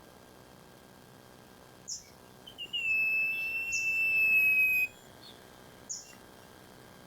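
Recorded iora song: a short high chirp, a few quick notes, then one long, level whistle of about two seconds, with brief high notes over it, followed by another short chirp near the end.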